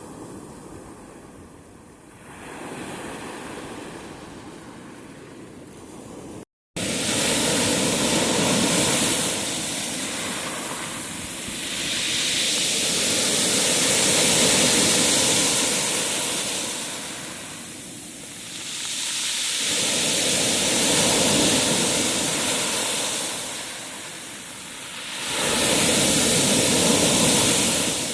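Sea surf: waves break and wash in, each swell rising and fading every five to seven seconds. It is softer at first, and after a brief dropout about six seconds in the surf comes back louder.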